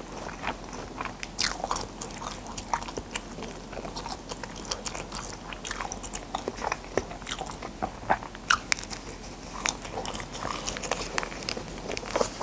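A person chewing and biting a snack close to a clip-on microphone, with many sharp, irregular clicks and crackles.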